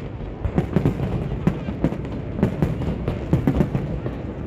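Fireworks going off: many overlapping bangs and pops, several a second at irregular intervals.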